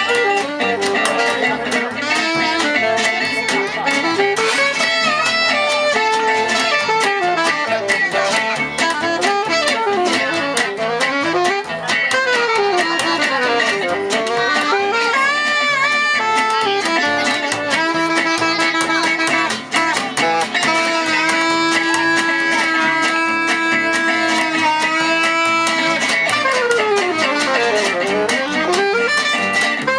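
Live jazz manouche (gypsy jazz) band playing, with plucked guitar to the fore and a lead melody that slides up and down, then holds long notes in the second half.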